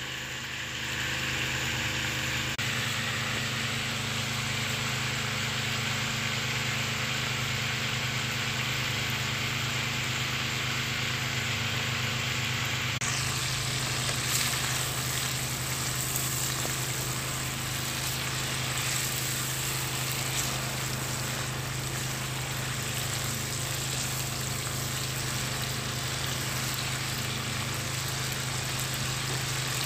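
Chicken pieces frying in hot ghee in a wok: a steady sizzle, with a continuous low hum underneath.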